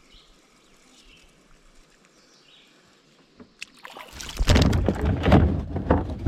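Water splashing and knocking around a kayak, loud and rough from about four seconds in, after a quiet stretch with a few faint high chirps.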